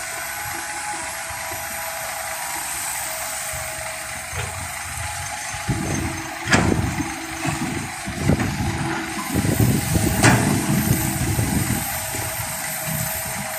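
Excavator working earth: its engine runs steadily, then labours in a rumbling stretch in the middle with two sharp knocks, about six and a half and ten seconds in.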